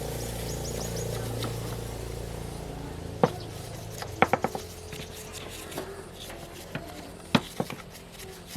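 Tools and pump parts being handled during a repair: a low steady hum for the first few seconds, then sharp clicks and knocks, a quick run of about four around the middle and a couple more near the end.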